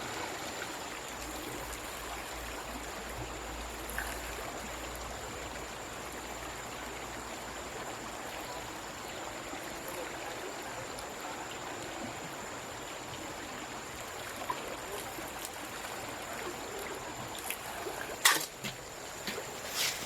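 Steady rush of running water, with a sharp knock near the end.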